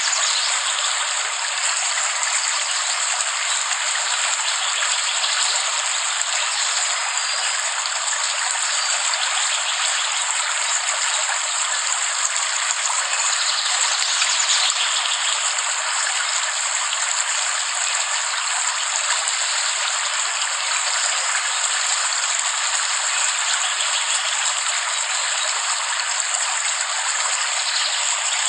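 Steady rain falling: an even, unbroken hiss of water with no low rumble.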